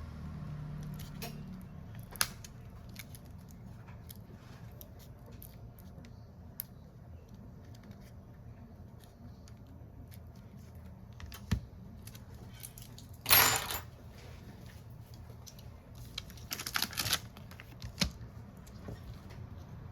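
Small tools and phone parts handled on a repair bench: scattered light clicks and taps, a louder rasping burst about 13 seconds in and a short cluster of them around 17 seconds, over a steady low hum.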